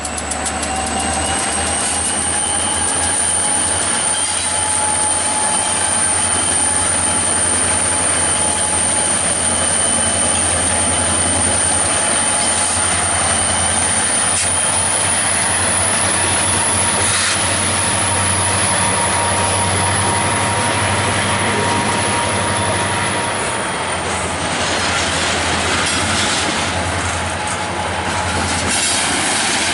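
Local freight train rolling through a grade crossing: low rumble and wheel clatter under a steady, piercing high tone that drifts slightly in pitch and fades about 24 seconds in. The crossing's high-pitched Safetran Type 3 electronic bells ring throughout.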